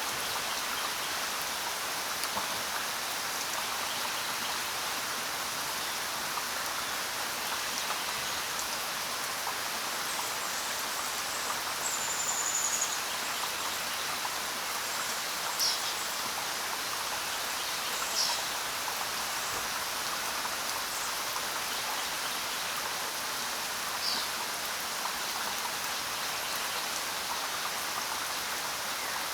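Steady rain falling in an even hiss, with a few short, high bird chirps over it now and then.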